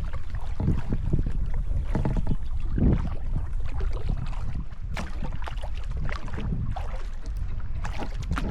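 Kayak paddle strokes dipping and splashing in the water, with scattered drips, over a steady low rumble of wind on the microphone.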